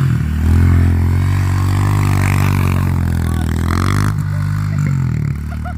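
Dirt bike engine running and revving, its pitch rising and falling with the throttle, with a scraping noise in the middle.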